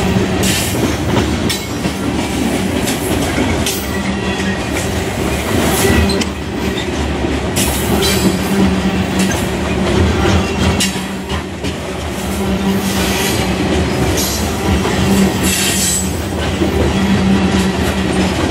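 Freight train of covered hopper cars rolling past: a continuous rumble of steel wheels on rail, with repeated clicks as wheels cross rail joints and a steady low drone.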